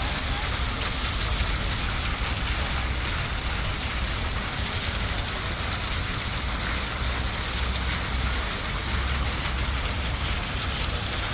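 Steady outdoor ambience: an even rushing hiss over a low, fluttering rumble, with no separate events standing out.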